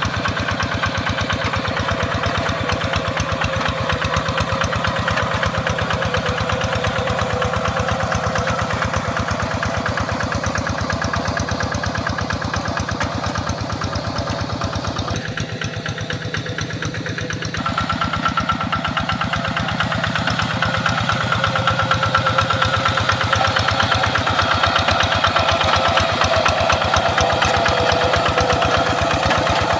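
Tractor engine running steadily while working, with an even firing pulse. A short quieter stretch about halfway, then the engine is louder for the rest.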